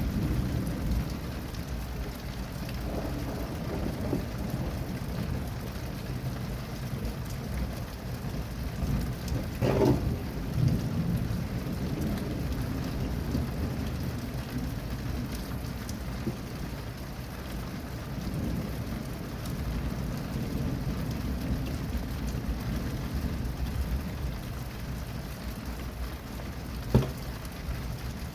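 Steady rain with low rumbling thunder from a thunderstorm. There is a louder burst about a third of the way in and a single sharp click near the end.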